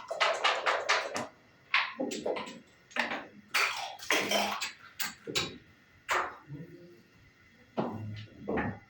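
Sharp, irregular clacks of backgammon checkers and dice striking the board during play, several in quick runs with short pauses between.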